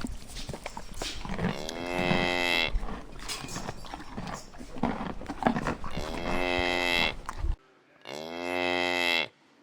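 Domestic cows mooing: three long moos, each lasting about a second, the first two over a background of scattered knocks and rustle, the last against silence.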